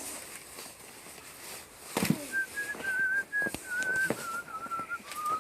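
A person whistling a slow tune that drifts gradually lower, starting about two seconds in. A few sharp knocks of firewood logs being set onto the stack come with it.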